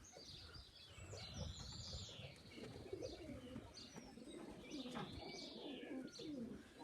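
Young racing pigeons cooing softly around the loft, with high, arching chirps from birds over the top every second or two.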